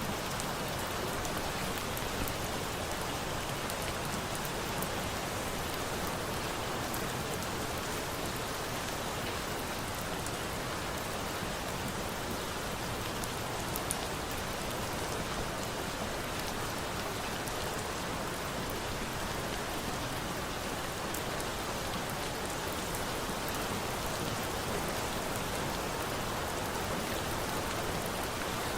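Steady rain falling, mixed with small scattered crackles and pops of a wood campfire.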